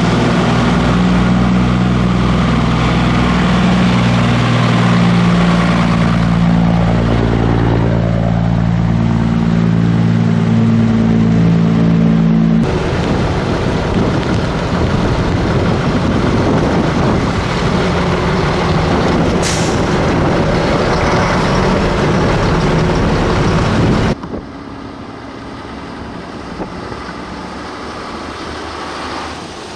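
Scania truck diesel engine running loud with a steady low drone. About twelve seconds in it cuts abruptly to a rougher vehicle rumble, and about halfway through the second part there is a sudden drop to quieter engine and road noise.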